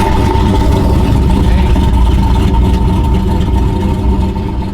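A turbocharged engine idling loudly, with a deep steady rumble and a steady high-pitched whine running over it.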